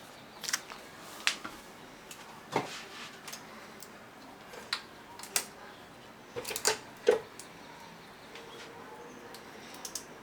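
Scattered sharp metallic clinks and knocks of hand tools on engine parts while a Suzuki DR750 engine is being taken apart, about eight in the first seven seconds, then only a faint steady background.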